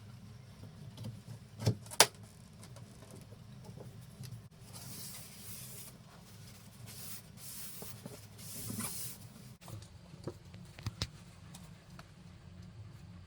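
Handling noises: two sharp knocks about two seconds in, stretches of scraping or rustling in the middle, and a few lighter clicks near the end, over a steady low hum.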